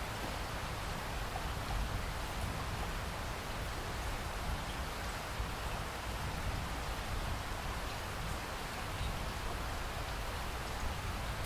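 Steady rain falling, with scattered drops pattering on a surface over a low rumble.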